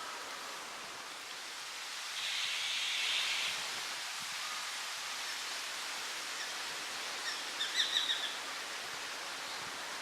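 A bird gives a quick run of about six short, high call notes nearly eight seconds in, over steady outdoor hiss. A brief swell of higher hiss comes about two seconds in.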